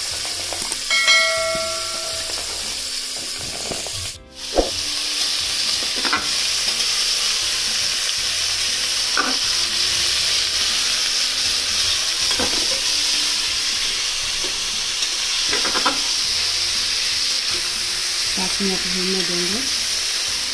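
Chickpeas, potato pieces and onions sizzling in oil in an aluminium pressure cooker, with a steady frying hiss. A spatula stirs them, scraping and knocking against the pot every few seconds, and a brief ringing tone sounds about a second in.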